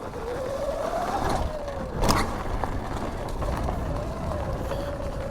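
Electric dirt bike's motor and chain drive whining as the bike pulls away: the pitch climbs for about a second, drops back, then holds steady, over a low wind rumble on the microphone. A single sharp knock comes about two seconds in.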